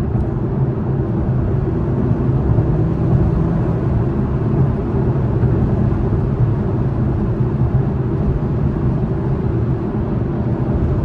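2021 Acura TLX Type S, its turbocharged V6 in sport mode, under way at steady speed and heard from inside the cabin: an even engine hum mixed with tyre and road noise.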